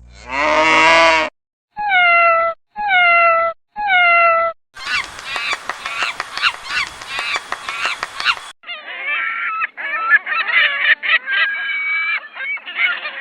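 Geese honking: one call at the start, then three separate honks about a second apart, each falling in pitch, then a clamour of many birds honking and calling together.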